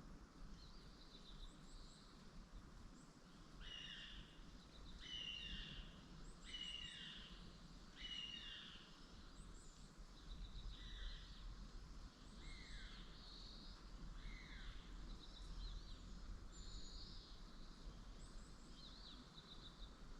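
Faint calls of small birds, with a series of short falling notes repeated about every second and a half for a few seconds near the start, then scattered high chirps.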